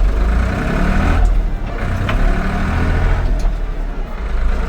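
Ford 3930 tractor's three-cylinder diesel engine pulling away in high range, first gear, heard from inside the cab. The engine note rises as it takes up the load.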